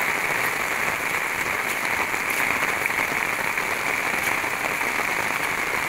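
Rain falling steadily, now easing off after a heavy downpour: an even patter of many small drops.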